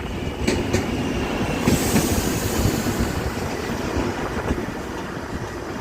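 Railway inspection car running along the track: a steady rumble of wheels on rail, loudest about two seconds in.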